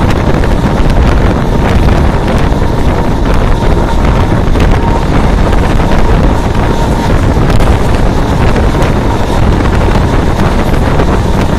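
Loud, steady wind rushing over the microphone held out of the door of a moving Mumbai suburban electric local train, mixed with the train's running noise.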